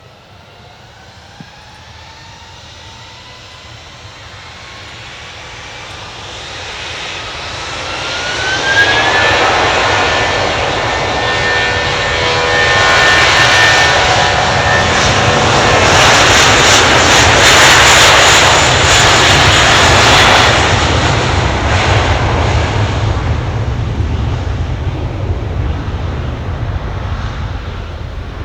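Airbus A320-232's twin IAE V2500 turbofans on the takeoff run. A whine climbs in pitch and the sound grows over the first nine seconds or so, then the engines at full power are loudest through the middle, and the sound fades slowly as the aircraft climbs away.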